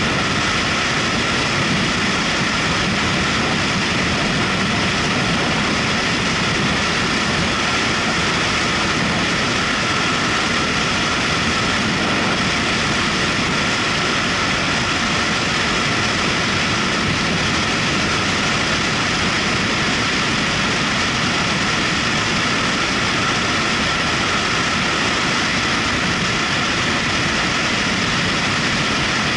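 Steady ride noise of a motorcycle under way: engine running with a constant rush of wind on the microphone, without changes in speed.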